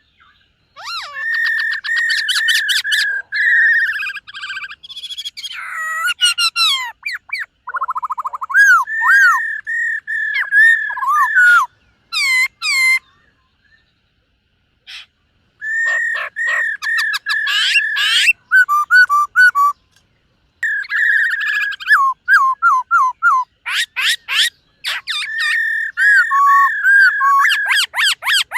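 Black-throated laughingthrush singing a long, varied song of loud whistled phrases and rapid trills, broken by a pause of a few seconds about halfway through.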